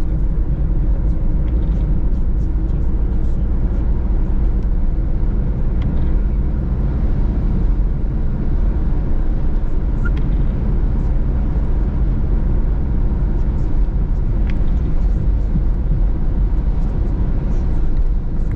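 Steady engine and road rumble heard inside a Peugeot Partner microcamper van's cabin while driving, heavy in the low end. It cuts off suddenly at the end.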